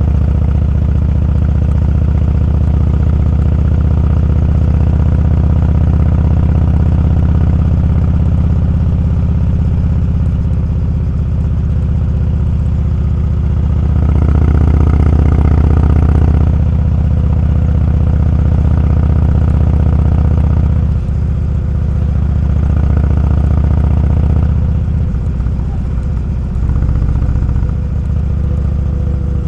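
Motorcycle engine running steadily under way, swelling louder for a couple of seconds about halfway through, with a few brief dips in level near the end.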